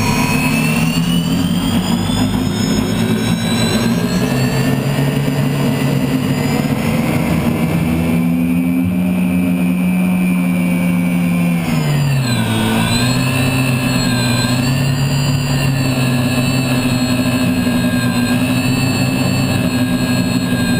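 Unlimited hydroplane's turbine engine, heard from onboard the boat, running hard: its whine climbs in pitch at first, then holds steady. About twelve seconds in the pitch dips briefly, then picks back up.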